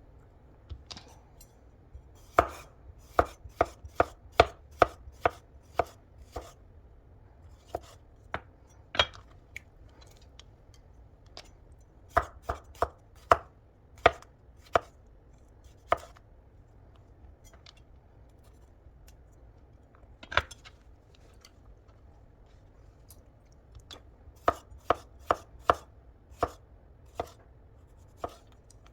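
A knife chopping food on a cutting board: sharp single knocks in three runs of several strokes each, with pauses between the runs.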